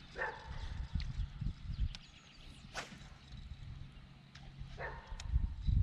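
Uneven low wind rumble on the microphone, with a few scattered sharp clicks and knocks and a faint steady hum in the middle.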